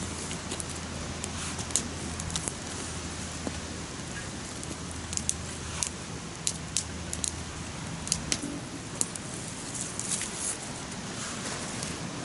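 Wood campfire crackling: a steady hiss with irregular sharp pops and snaps.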